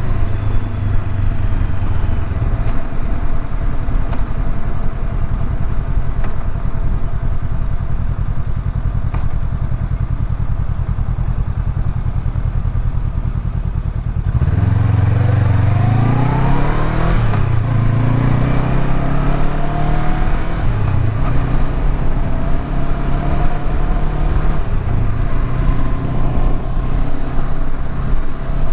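Motorcycle engine running steadily at low revs, then about halfway pulling hard through the gears: the pitch rises, drops back at each upshift, and rises again several times.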